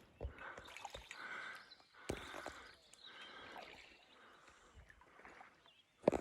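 Faint outdoor ambience with a few scattered soft knocks and rustling.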